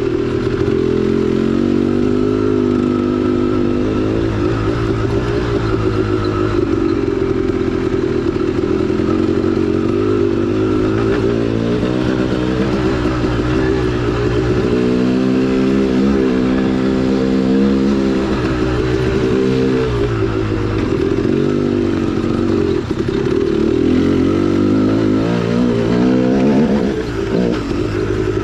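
2010 KTM 300XC-W dirt bike's two-stroke single-cylinder engine running on a trail ride, its pitch rising and falling with the throttle and dropping off near the end.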